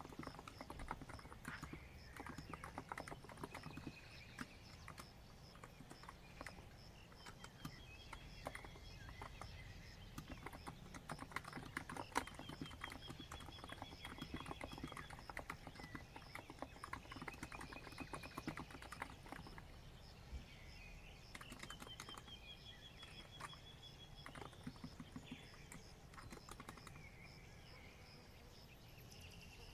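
COX Empress electro-capacitive keyboard typed on in a steady, irregular run of soft keystrokes. Birds trill in the background over a steady high pulsing chirp.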